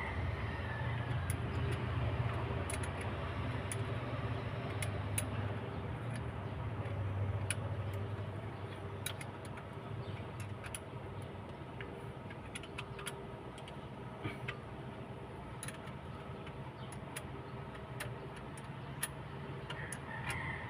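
Hand tools clicking and clinking on metal engine parts in scattered short taps, over a steady low mechanical hum.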